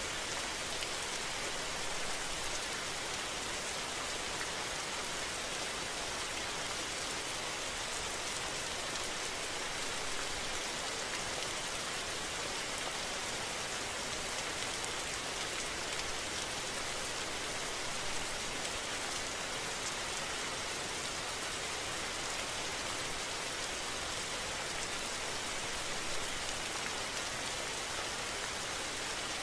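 Steady rain falling, an even hiss with fine scattered patter.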